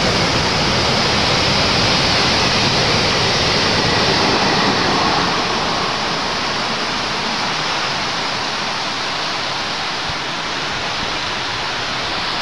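Heavy rain pouring down steadily. Under it, the low rumble of a container freight train's wagons running through fades out about five seconds in as the train draws away.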